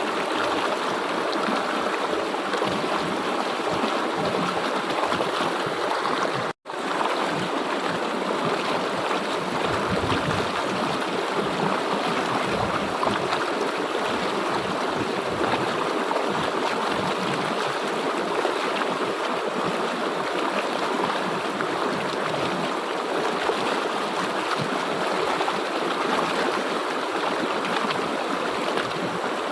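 Steady rush of a flowing river. The sound cuts out for a split second about six and a half seconds in, then carries on unchanged.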